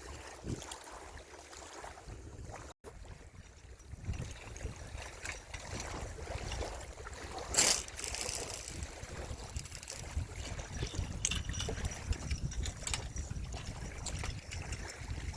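Outdoor ambience at a reservoir's edge: a low, uneven rumble like wind on the microphone, with faint trickling water. One short, sharp noise stands out about halfway through.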